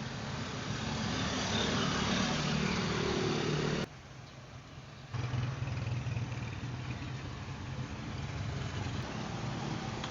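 A motor vehicle engine running, growing louder for about four seconds before cutting off abruptly; after about a second of quieter sound, another engine sound starts suddenly and runs steadily.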